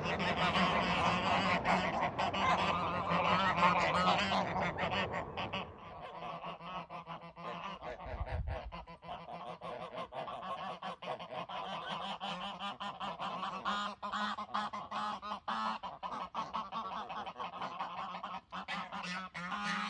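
A flock of waterfowl honking and calling together, loudest for about the first five seconds and then quieter, with many sharp ticks scattered throughout.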